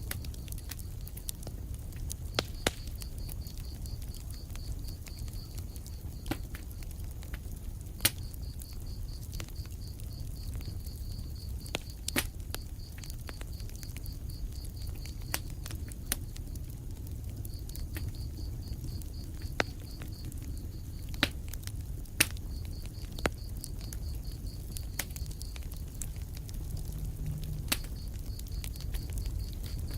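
Wood fire burning in a fireplace: a steady low rumble of the flames with sharp, irregular crackles and pops every second or two. Through long stretches a faint, high, rapidly pulsing chirp runs alongside.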